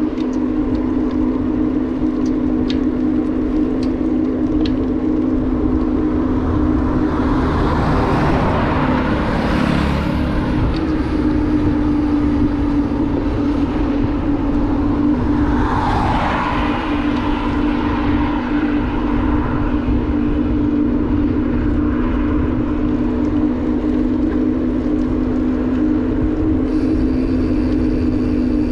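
Motorbike engine running at a steady cruising speed, with wind rumbling on the microphone. Two passing vehicles swell up briefly, about a third of the way in and again just past halfway.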